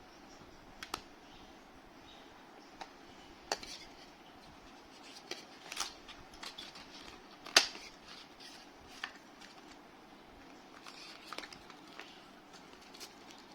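Handling noises from unboxing a pair of wireless earbuds: scattered light clicks and taps of plastic and packaging, the loudest about seven and a half seconds in, over a steady faint hiss.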